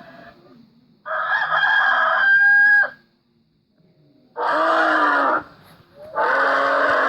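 Rooster crowing once, a single cock-a-doodle-doo about a second in that ends on a high held note. Two shorter animal calls of about a second each follow near the end.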